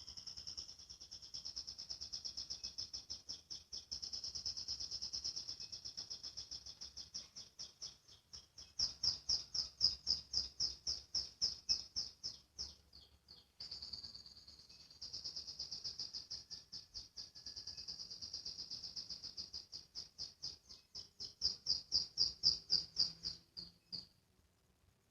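Domestic canary singing two long, high, rapid trills in the 'ngriwik' style, a chattering roll that breaks into louder, more separate notes toward the end of each phrase. The first phrase breaks off about 13 seconds in and the second ends about a second before the end.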